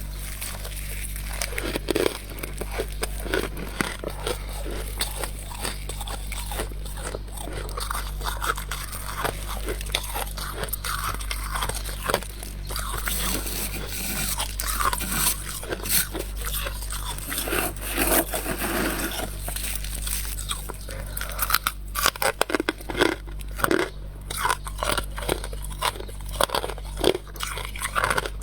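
Close-miked biting and chewing of soft frost, with dense, irregular crunching and crackling, busier in the second half, over a steady low hum.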